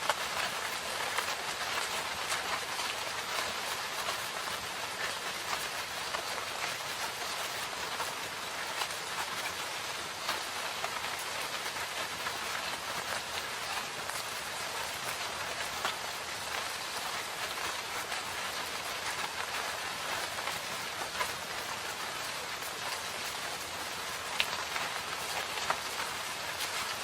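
Steady rain falling in a forest, a dense even patter of drops on leaves and ground, with a few louder single drops standing out.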